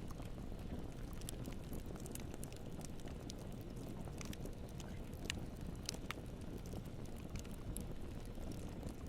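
Campfire burning: scattered sharp crackles and pops of the burning wood over a steady low rumble, with a few louder pops around the middle.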